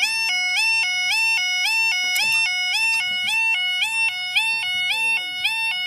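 UK level crossing audible warning alarm sounding: an electronic two-tone alarm switching rapidly and evenly between a lower and a higher tone. A brief click about two seconds in.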